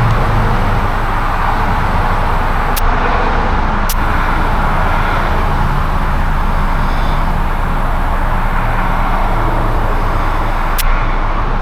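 Steady vehicle noise, a low running hum with traffic, broken by a few sharp clicks about three and four seconds in and again near the end.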